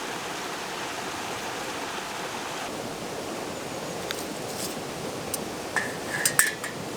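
Steady rushing noise, with a few sharp ticks and then a short run of metallic clinks in the last second or so.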